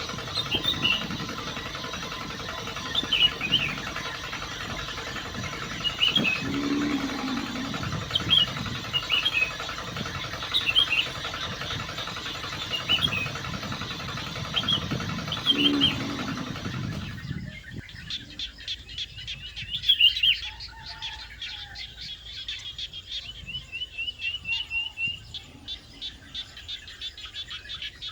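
A small motor hums steadily while birds chirp over it; about seventeen seconds in the hum stops, leaving bird chirps and a quick ticking trill.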